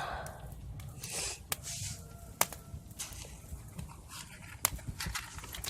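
Small straw-and-match campfire crackling, with irregular sharp pops and a couple of brief hisses of flaring material about one and two seconds in.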